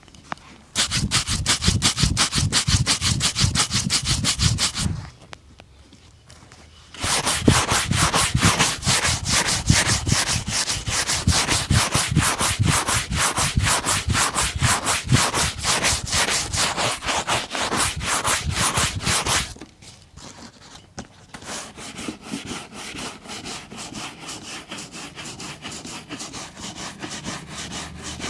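Fast, even back-and-forth rubbing strokes on a boot during shoeshine work. The strokes stop twice for a couple of seconds, and after the second pause they go on more softly.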